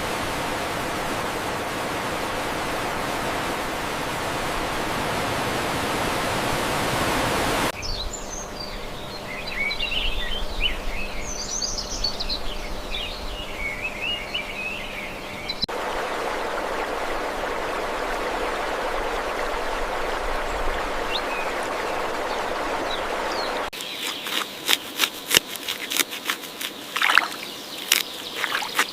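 Outdoor nature sounds in abrupt segments: a steady rushing noise, then birds chirping over a quieter background, the rushing again, and near the end a run of sharp clicks with a faint high steady buzz.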